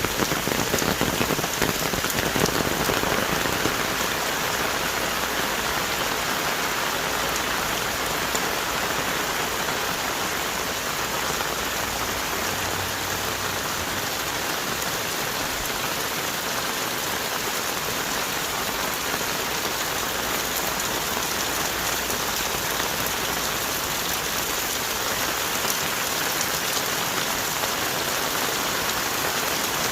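Heavy rain falling on rainforest trees, a steady dense hiss of drops with no break.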